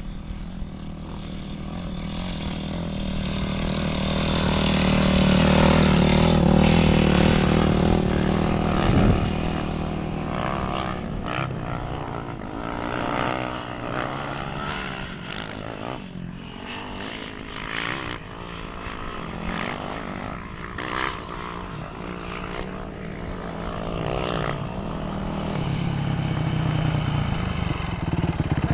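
Off-road race engines revving as they pass. The pitch rises and falls with the throttle, loudest about six seconds in and building again near the end.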